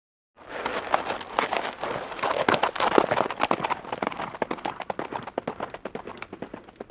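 Horses' hooves running, a dense, irregular clatter of many hoofbeats that starts suddenly about half a second in and slowly gets quieter.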